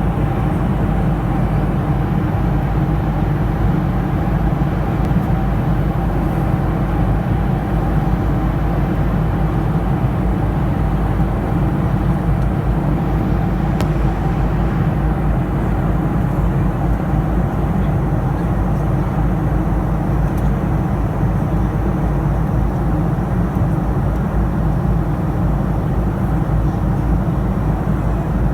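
Steady cabin noise of an aeroplane in flight: the engines' drone and rushing air, with a steady hum running through it.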